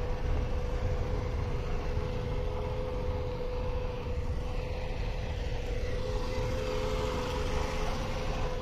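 Intermodal freight train running upgrade: a heavy, continuous low rumble with a steady droning tone above it.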